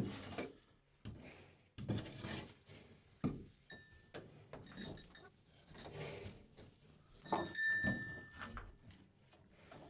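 Irregular knocks, clinks and rattles, as of objects being handled. A short high ringing tone sounds twice, about four seconds in and again near the eight-second mark.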